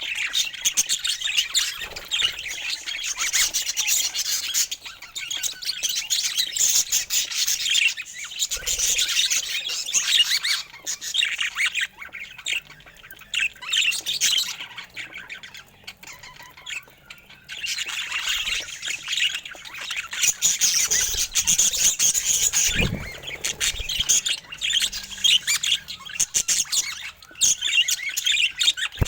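Budgerigars chattering and squawking in a fast, continuous warble of high chirps that thins out for a few seconds midway. A brief low thump about three-quarters of the way through.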